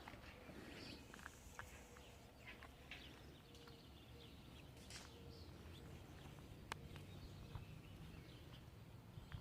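Faint birdsong: scattered short chirps and calls, with a few soft clicks and a low steady background hum.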